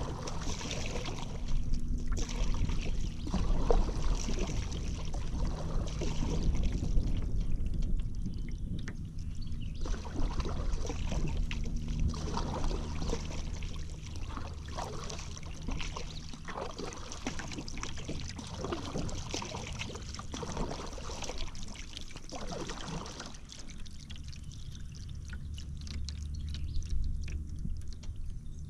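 Paddle strokes in river water: the blade dipping and pulling, with water pouring and trickling off it, over a low steady rumble. The splashing thins out for the last few seconds.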